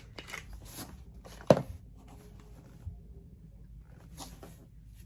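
Small makeup products and their packaging being handled, with light rustles and one sharp knock about one and a half seconds in, and a smaller tap a little later.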